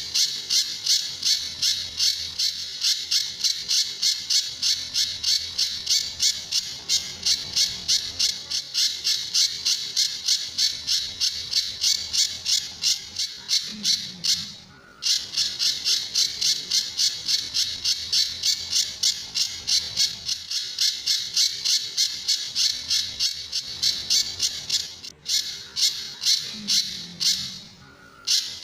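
Pijantur songbird calling in a fast, unbroken series of sharp, high notes, about three to four a second, with a short break about halfway through and another near the end. These are the rapid 'tembakan' (shooting) calls that keepers play as a master song for other songbirds.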